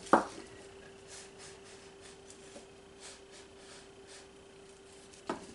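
Quiet room with a steady low hum and faint scratchy handling sounds. A short knock just after the start and another near the end.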